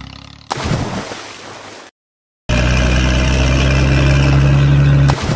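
A hissing noise starts suddenly about half a second in, cuts out to a brief silence, then a loud, steady engine-like drone runs for a couple of seconds and stops abruptly near the end.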